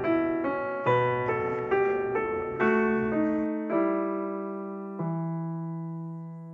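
Background piano music: a melody of evenly paced notes, about two a second, that slows to two held chords after the middle and rings out, fading.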